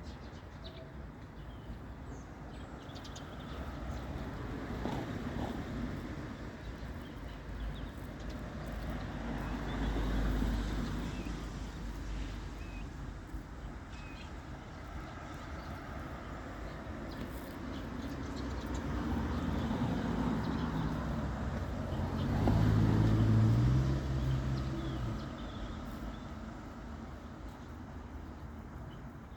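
Road traffic passing: vehicle noise swells and fades several times, loudest about three quarters of the way through, where a deep engine hum stands out.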